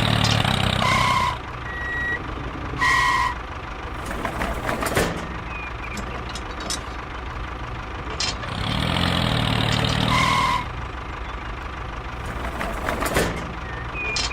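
A vehicle engine running in spells, dropping away after about a second and picking up again about two-thirds of the way through. Short electronic beeps, like a reversing alarm, sound a few times.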